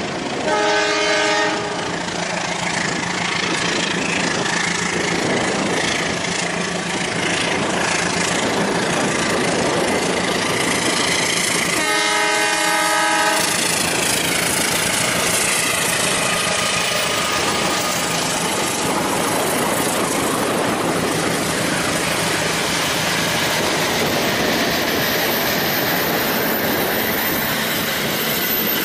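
A train running, with steady rail noise and wheel clatter, and two horn blasts of over a second each, one about a second in and one about twelve seconds in.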